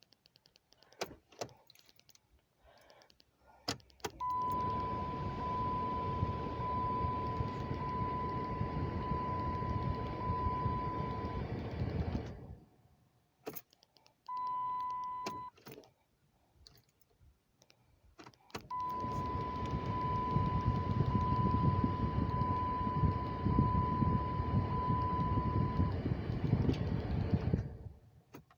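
Key clicks and jangling, then twice a steady electrical whir with a repeated high warning chime in a 2008 Dodge Charger with the key turned. The whir runs for about eight seconds each time and cuts off, with a short chime between. No starter cranking is heard: the car's intermittent no-crank fault.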